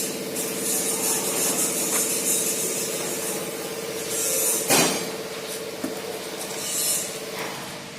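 A machine running steadily with a low hum, overlaid by hissing that comes and goes and a single sharp knock about five seconds in.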